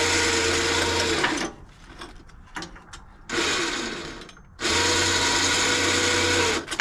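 ATV electric winch motor running in bursts, paying out cable to lower the plow: one run stops about a second in, a short burst follows midway, then a longer run near the end.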